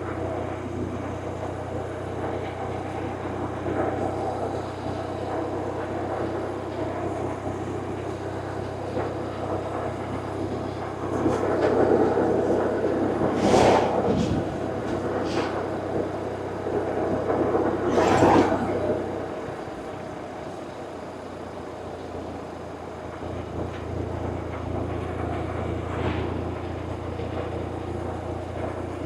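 BMW R1100RT's air/oil-cooled boxer twin engine running under way, a steady drone. A louder stretch comes through the middle, with two short loud swells, then the engine note drops away briefly before coming back.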